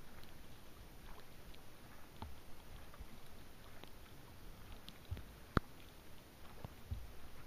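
Raindrops tapping irregularly on the kayak's deck close by, over a soft even hiss of rain, with one sharper tap a little past halfway.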